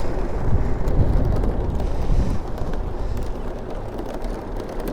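Wind rumbling on the microphone of a camera riding on a moving bicycle, a steady low rumble that eases off a little toward the end.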